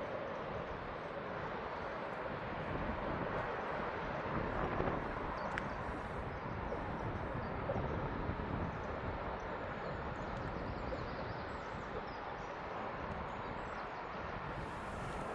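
Steady outdoor ambient noise with no single clear source, and one short high chirp about five and a half seconds in.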